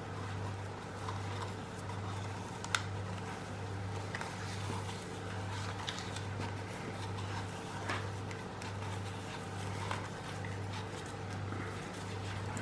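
Faint clicks and taps of hands handling a plastic bottle and rope while hot-gluing, with one sharper click a little under three seconds in, over a steady low hum that swells and fades about every half second.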